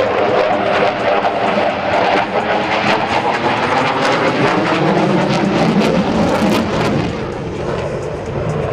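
F-15E Strike Eagle's twin turbofan jet engines running loud in a fly-by pass, a dense steady jet noise that eases about seven seconds in.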